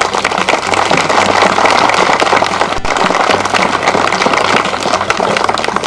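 An audience applauding: a dense, steady clatter of many hands clapping.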